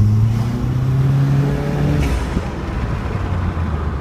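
Turbocharged four-cylinder engine of a 2012 Nissan Juke accelerating, its pitch rising for about two seconds, then a short hissing dump from the aftermarket Synapse diverter valve venting boost as the throttle closes, after which the engine runs on lower.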